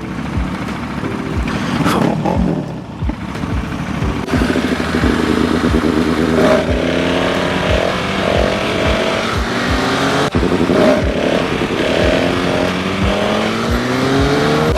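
Motorcycle engine accelerating hard. From about four seconds in its pitch rises, drops back and rises again several times as it climbs through the gears.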